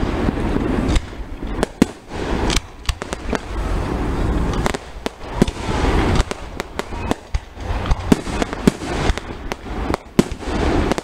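Fireworks display at close range: a rapid, irregular run of sharp bangs and pops, dozens over a few seconds, over a steady rumbling haze.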